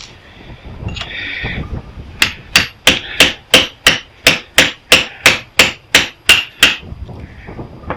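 A hammer striking the old welder's transformer in a quick, steady run of about fourteen blows, about three a second, starting about two seconds in, to knock a piece of it loose for its copper.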